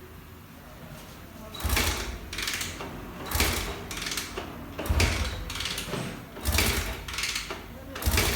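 Honda CD125 parallel-twin engine being cranked over for starting: a series of loud turning-over strokes about every second and a half, without settling into a steady run.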